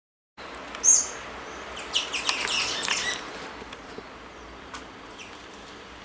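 Small birds chirping: one sharp, high chirp about a second in, then a quick run of chirps between about two and three seconds in.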